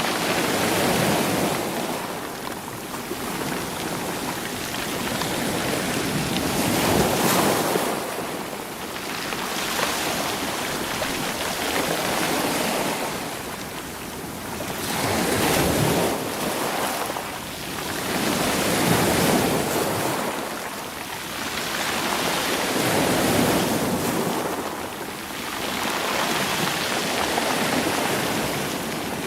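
Sea waves washing in over rocks, the surf swelling and drawing back about every four seconds.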